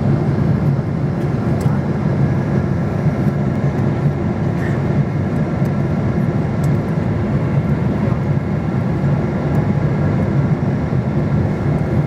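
Airliner cabin noise on the approach to landing: a steady, even rumble of engines and airflow heard from inside the passenger cabin.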